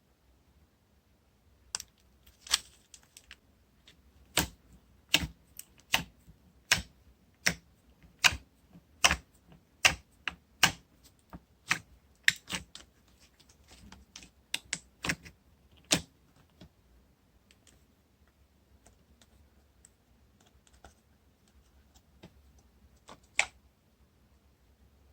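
Toffee slime being pressed and worked by hand, giving off sharp, separate clicking pops, fairly even at a little more than one a second for a stretch, then sparser, with one louder pop near the end.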